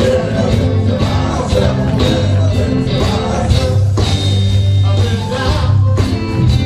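A gospel band playing an upbeat song, with a steady beat and bass line and some singing.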